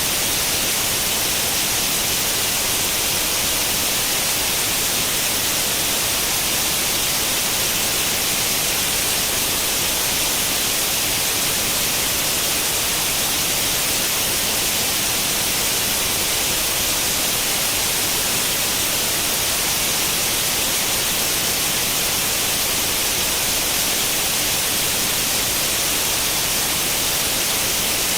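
Steady, unchanging hiss of white noise like the static of an untuned tube television, brightest in the high range.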